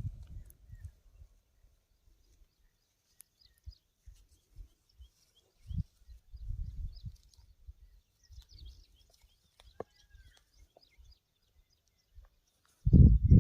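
Faint, scattered bird chirps, with intermittent low thumps and rumbles and a louder burst of them near the end.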